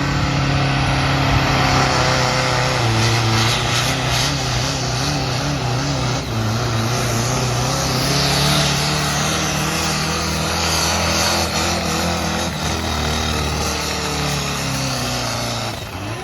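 Pulling tractor's engine held at high revs under heavy load, running steadily with small wavers in pitch, and easing off near the end.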